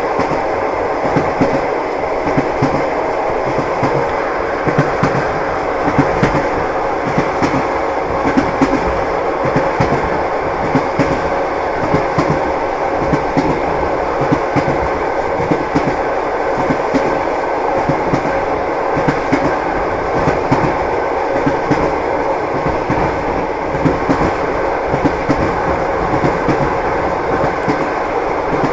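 Train wheels clacking over rail joints, a steady rumble broken by clicks that recur evenly, heard from inside a moving passenger carriage.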